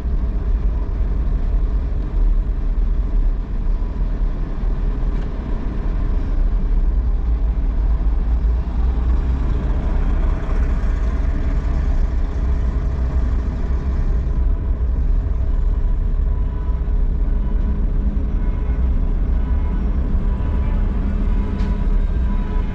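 Motor vehicle running, a heavy steady low rumble with engine and road or machinery noise over it.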